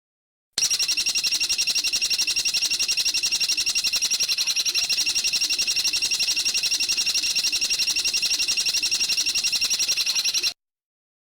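A songbird's rapid, high-pitched trill of about ten evenly spaced notes a second, held unbroken for about ten seconds. It starts abruptly just after the beginning and cuts off abruptly near the end.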